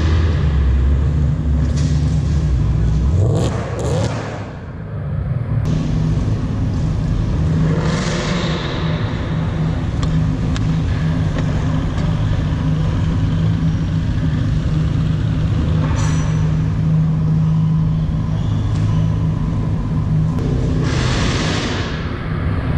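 A vehicle engine running at fairly steady revs, with three brief louder whooshes.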